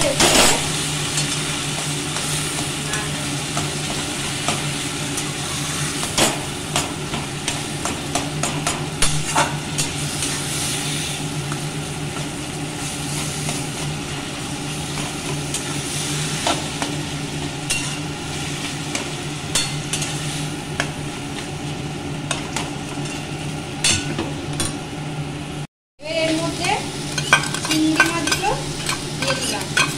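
Taro leaves frying and sizzling in mustard oil in a metal wok while a metal spatula stirs, scraping and clicking against the pan again and again. A steady low hum runs underneath, and the sound cuts out for an instant about 26 s in before the sizzling and stirring resume.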